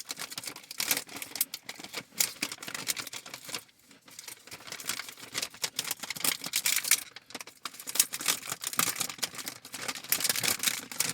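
Thin plastic cookie wrapper crinkling and crackling in quick, irregular clicks as cookies are handled and pushed back into it.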